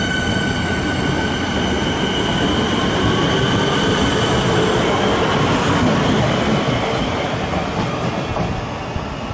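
Melbourne suburban electric train running along a station platform: a steady rumble of wheels on rails, with a high whine that fades out in the first second or so, easing slightly near the end as the train moves off.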